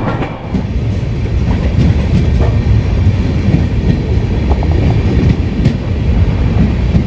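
Sainik Express passenger train running, heard from an open coach door: a loud, steady rumble of wheels on track with a few sharp clicks.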